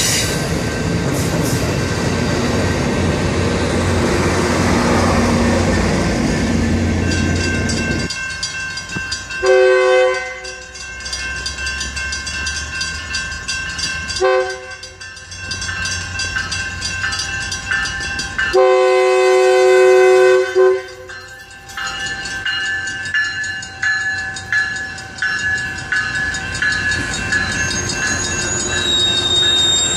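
Amtrak bilevel passenger cars rolling past with a steady rumble. Then, at a level crossing, the warning bell rings while an approaching Metrolink commuter train blows its horn three times: a one-second blast, a short one and a long one of about two seconds. Near the end the train's cars pass.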